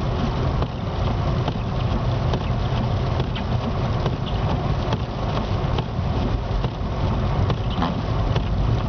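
Steady low rumble of a car heard from inside the cabin during a heavy snowstorm, with many small scattered ticks throughout.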